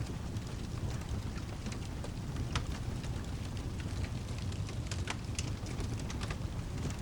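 Steady rain with a low rumble underneath, and wood fire crackling: sharp pops at irregular moments, roughly one a second.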